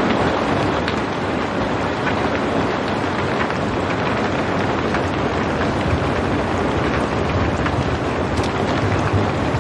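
Steady rain falling without thunder: a dense, even hiss with occasional separate drop ticks.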